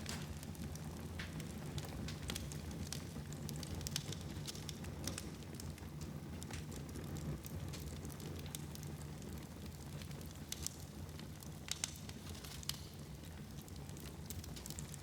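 Wood fire burning in a fireplace, a steady low hiss of the flames with frequent irregular crackles and pops from the burning logs.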